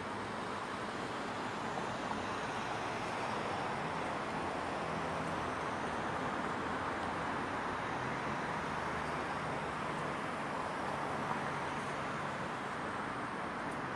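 Steady outdoor ambience of a residential neighbourhood in the evening: an even wash of distant traffic noise, swelling slightly in the middle, with a faint low engine hum underneath for several seconds.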